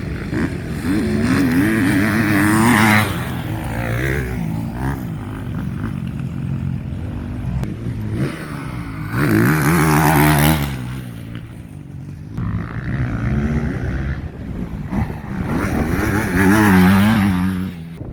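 Motocross bikes revving hard as they race past, their engine notes rising and falling with throttle and gear changes. The sound swells three times as bikes come closest: soon after the start, about halfway through, and near the end.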